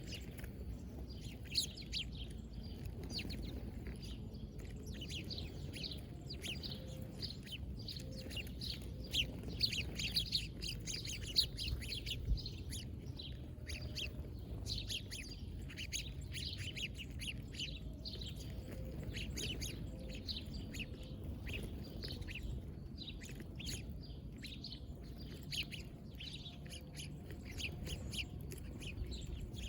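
Small birds chirping, many short, quick chirps overlapping and continuing without a break, over a low steady rumble.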